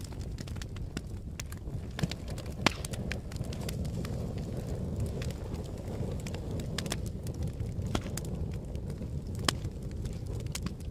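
Fire burning with a steady low roar and irregular crackles and pops, two of them sharper and louder, about a third of the way in and near the end.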